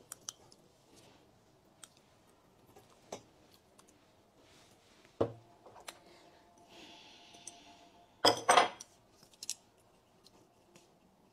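Scattered light clicks and clinks of tableware being handled at a meal, with a short louder double clatter a little past eight seconds in.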